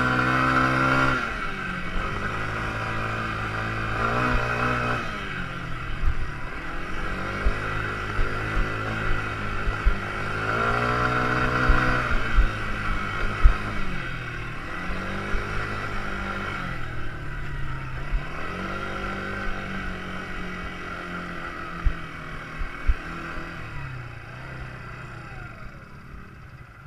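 Quad bike engine revving up and easing off over and over, with a few sharp knocks along the way; it grows fainter near the end.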